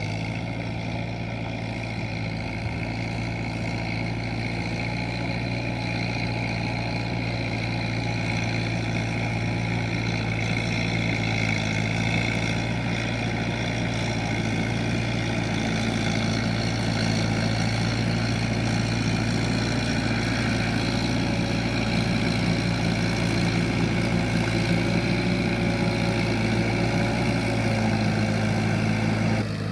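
Kubota M7040SU tractor's four-cylinder diesel engine running steadily under load while pulling a plough, growing a little louder over the stretch.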